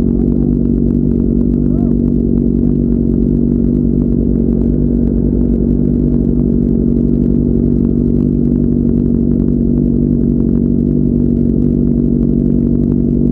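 Sport motorcycle engine running at steady freeway cruising revs, a constant drone that holds the same pitch throughout.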